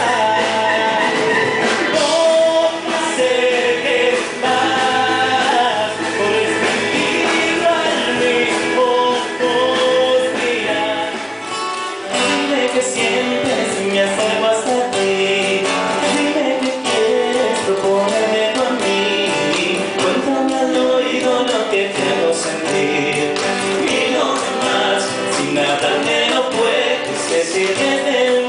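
Live band music with a melody carried over the accompaniment.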